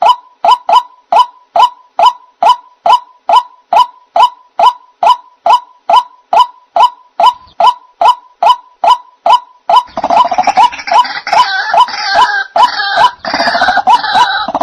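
White-breasted waterhen (ruak-ruak) calling: a short 'ruak' note repeated evenly about two and a half times a second. About ten seconds in, harsher overlapping calls join in, making a busier chorus.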